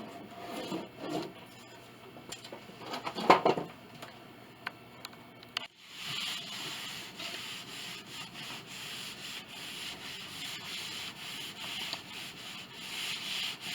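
Sandpaper being rubbed by hand over wood in steady back-and-forth strokes, taking over about six seconds in after a few scattered knocks and handling sounds.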